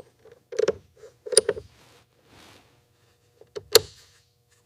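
Tie-down chains being fastened: a handful of sharp metallic clanks in clusters, about a second in and again near the four-second mark, over a faint steady hum.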